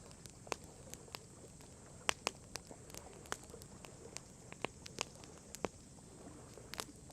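Wood campfire crackling: scattered sharp pops and snaps at irregular intervals, over a low hiss.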